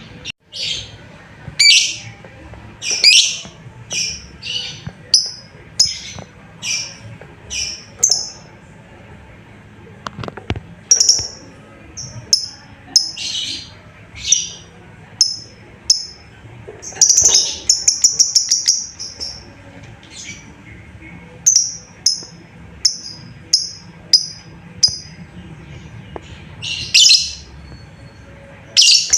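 Lovebird calling: repeated short, sharp, high-pitched chirps about one a second, with a quick rattling run of chirps about halfway through. These are contact calls to a companion, used to draw other lovebirds into answering.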